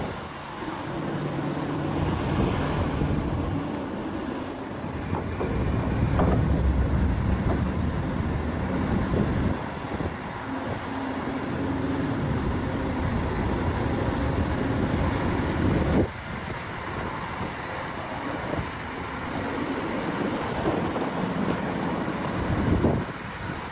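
Large Caterpillar mining excavator working under load: its diesel engine drones and its level swells and falls, with a few sharp metallic knocks, the loudest about sixteen seconds in and again near the end.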